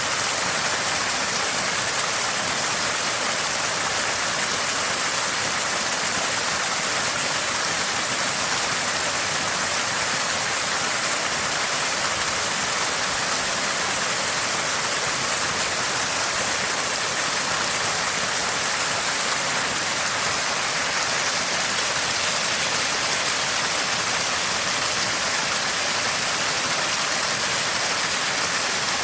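Small spring gushing and gurgling steadily: a constant, even splash of running water, strongest in the high hiss.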